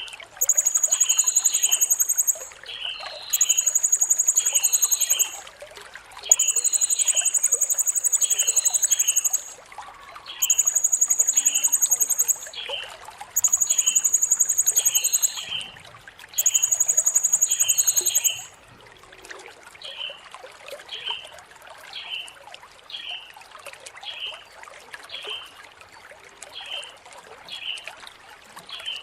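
Blue-crowned hanging parrot (serindit) singing: long, very high, shrill trills of two to three seconds each, repeated about every three seconds and stopping about eighteen seconds in. Beneath them a lower, short chirp repeats about once a second throughout.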